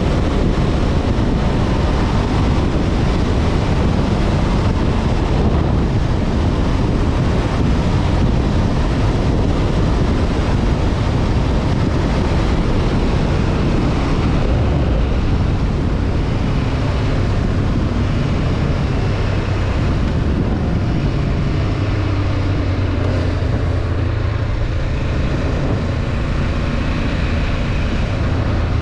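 Honda CB500F parallel-twin engine running under way, mixed with heavy wind rush on the microphone. From about 20 seconds in the wind eases and the engine's low, steady hum comes through more clearly.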